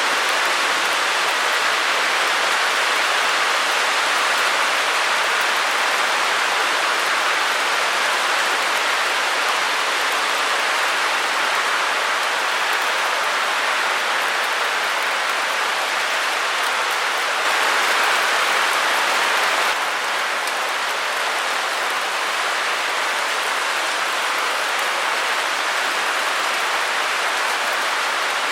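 Steady white-noise hiss, an even rushing sound with no rhythm or tones, a little louder for a couple of seconds about two-thirds of the way through.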